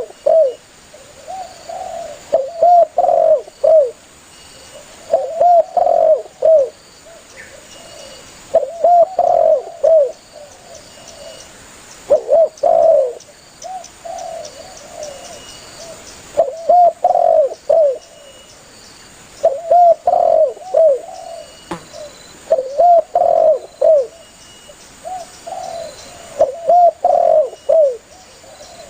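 Spotted dove cooing: a phrase of several short arched coos repeated about every three seconds. It is a steady, vigorous calling bout.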